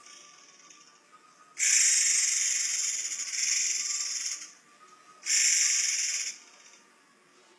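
A forktail (murai air) giving two long, shrill, hissing calls: the first starts near two seconds in and lasts about three seconds, the second is about a second long.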